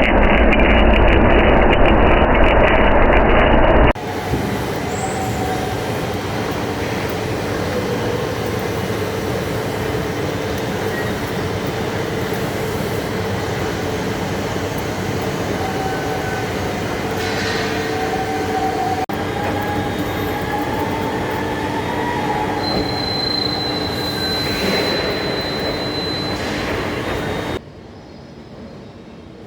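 Heavy-duty lathe turning a large steel part: steady machining noise with wavering squealing tones from the cutting. The sound changes abruptly about four seconds in and cuts off a couple of seconds before the end.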